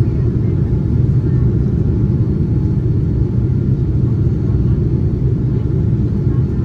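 Steady low rumble of a Boeing 787-9's engines and airflow heard from inside the passenger cabin as the airliner climbs out after takeoff.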